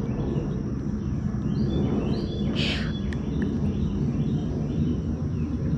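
Outdoor ambience: a steady low rumbling noise, with a bird calling over and over in the background. A short scratchy sound comes about two and a half seconds in.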